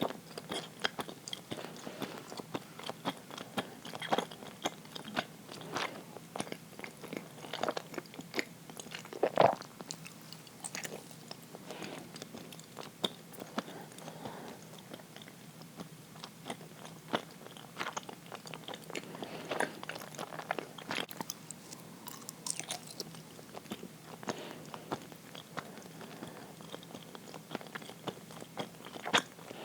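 Close-miked chewing of uiro, a soft, sticky Japanese steamed rice-flour sweet: irregular wet clicks and smacks of the mouth, with one louder smack about nine seconds in.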